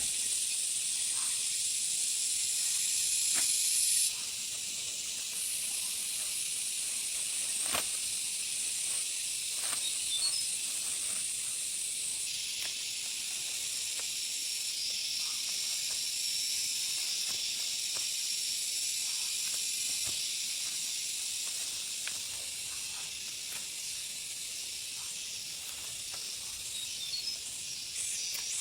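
Steady high-pitched drone of a forest insect chorus. Its level drops suddenly about four seconds in, and a few faint clicks sound in the first eight seconds.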